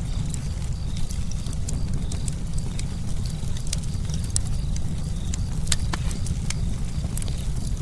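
Campfire burning: a steady low rumble with frequent, irregular sharp crackles and pops from the burning wood.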